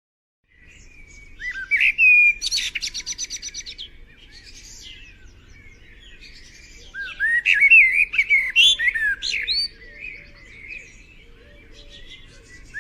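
Songbird singing a varied song of clear whistled phrases, starting after a brief silence, with a rapid trill about two seconds in and a cluster of loud sliding whistles around the middle, over a faint low background rumble.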